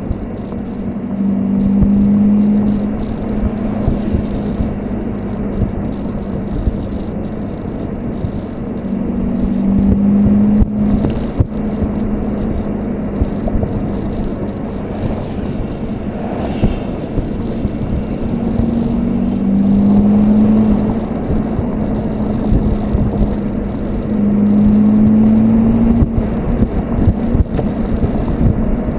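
Exhaust of a Volkswagen Golf 2.0 L TDI diesel with a 3-inch Cortek high-flow-cat exhaust, running with a steady low drone. The drone swells louder four times, over a background of rushing noise and rattle.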